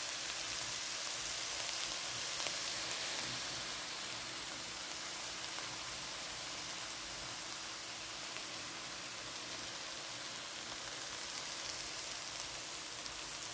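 Shiitake mushrooms and onions sizzling steadily as they stir-fry in soy sauce in a hot pan, easing a little about four seconds in.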